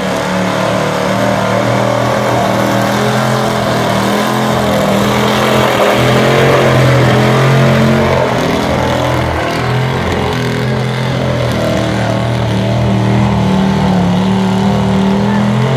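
1975 Chevrolet truck's engine held at high revs under full load during a truck pull, running steadily at an almost constant pitch and growing a little louder around the middle.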